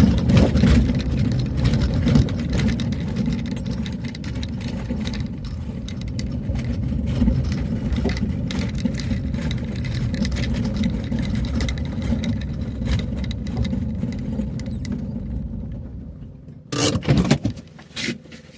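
A vehicle driving on a rough road: a steady low rumble full of small knocks and rattles that dies away near the end. Then come two loud thuds.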